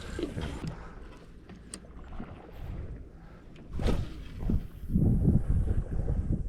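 Knocks and bumps on a longtail boat, the loudest a single sharp thump about four seconds in, over a low rumble.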